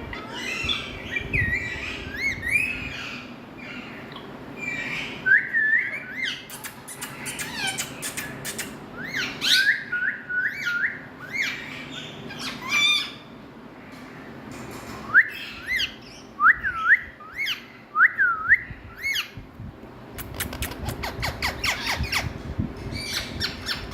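Pet parrot calling: a string of short rising whistled calls, repeated one after another, mixed with sharp clicks and squawks.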